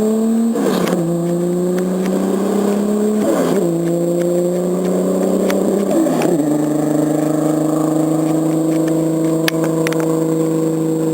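Single-turbo MKIV Toyota Supra's inline-six engine accelerating hard: the pitch climbs through each gear and drops sharply at three gear changes, about half a second, three and a half and six seconds in, with a brief rush of noise at each shift. After the last shift the engine note holds nearly level, easing down slightly.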